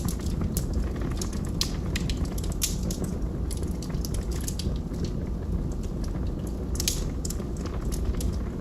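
Wood fire burning with a steady low rumble and irregular sharp crackles and pops of burning logs, a few louder pops among them.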